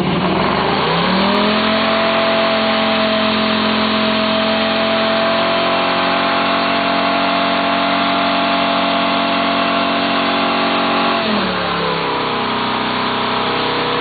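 The 383 stroker small-block V8 of a 1987 Chevy C10 revs up and holds high and steady through a burnout, over the hiss of spinning tyres. About 11 seconds in the revs drop and settle lower as the truck shifts into second gear while the tyres keep spinning.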